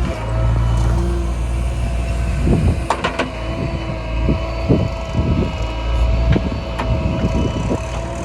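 Diesel engines of a backhoe loader and tractor running steadily, with a steady whine over the drone and scattered sharp knocks and clanks from the machinery working.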